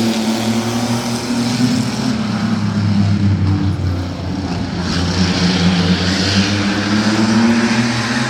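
A field of mini trucks (compact pickups) racing at full throttle just after the green flag, their engines running together in a steady, slightly wavering sound.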